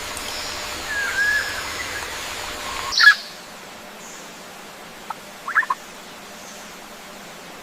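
Wild birds calling: a short whistled note about a second in, a louder rising call near the three-second mark, then a quick cluster of short notes about two seconds later, over a faint steady hiss of outdoor ambience.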